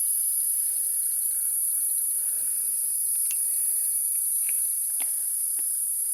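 Steady high-pitched hiss of rainforest insects in the wet forest, with a few scattered light drips or ticks.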